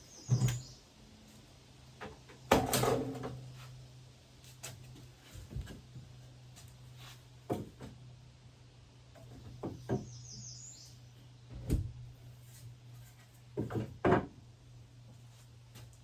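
Scattered knocks and clunks of wooden kitchen cabinet parts being handled and fitted, the loudest about two and a half seconds in, with two short high squeaks and a steady low hum underneath.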